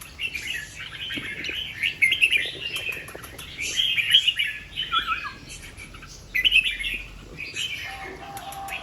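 Red-whiskered bulbul singing: short warbling phrases, one after another.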